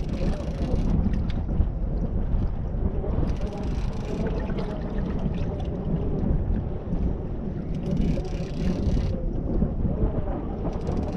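Wind buffeting the microphone, a steady low rumble, with brief patches of higher hiss every few seconds.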